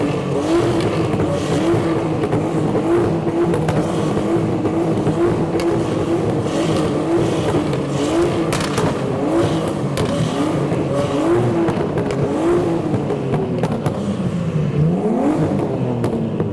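Nissan Skyline R33 straight-six engines revved over and over in short blips for a flame-off, each blip rising and falling back, with sharp pops and cracks from the exhaust between them. About fourteen seconds in, the revs sink lower and then climb again.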